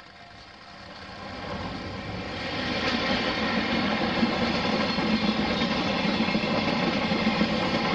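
JR East ED75 AC electric locomotive hauling a train of long Chiki flatcars along the line. The rumble grows louder over the first three seconds as it approaches, then holds steady as the train runs by.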